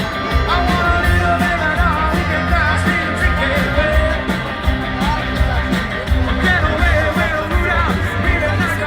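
Live band playing an amplified rock song, a singer's voice over guitar and a steady, pulsing bass.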